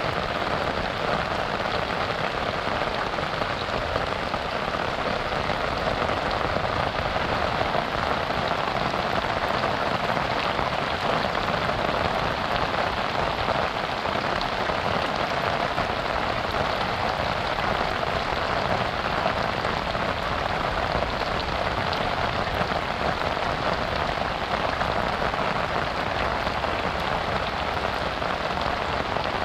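Steady rain falling: an even, unbroken hiss of drops with no thunder.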